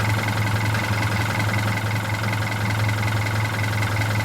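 Hino Dutro's 4-litre intercooled turbodiesel idling steadily with an even low hum, heard at the exhaust during a check of its exhaust pressure.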